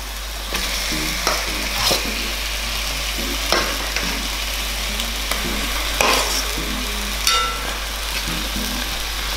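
Chicken pieces sizzling and frying in hot oil and spice paste in a cast-iron pan, with a steady hiss. About five sharp knocks come from the pieces and a metal ladle against the pan; the last, about seven seconds in, rings briefly.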